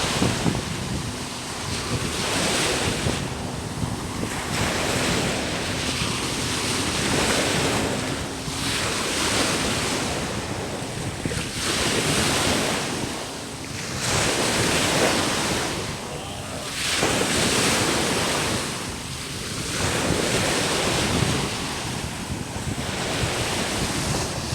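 Sea waves breaking and washing up on a sandy beach, the surf swelling and ebbing every two to three seconds, with wind on the microphone.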